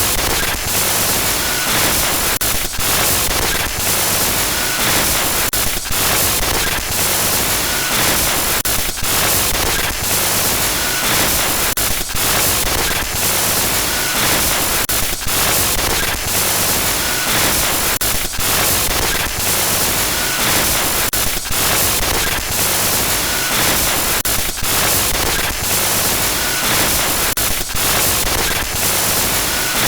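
Loud, harsh glitch noise: static hiss across the whole range of pitches, broken by frequent brief dropouts and stutters.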